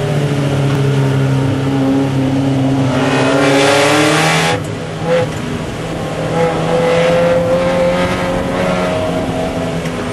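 Mazda Miata race car's four-cylinder engine heard from inside the cockpit, climbing in pitch under hard throttle. About four and a half seconds in the pitch drops suddenly as it shifts up, then it climbs again.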